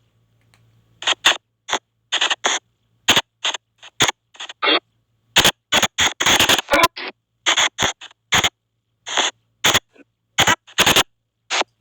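SP White Noise box spirit-box app sweeping, giving a rapid, uneven string of short, choppy bursts of static and clipped sound fragments, each a fraction of a second long, with brief silent gaps between them.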